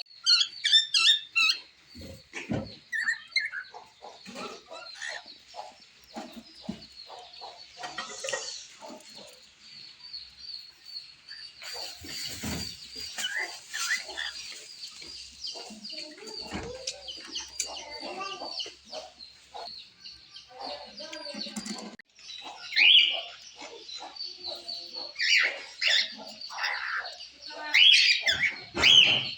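Pet cockatiel singing: a long run of chirps and whistles, loudest at the start and over the last several seconds, with a steady stream of fainter high chirps in between.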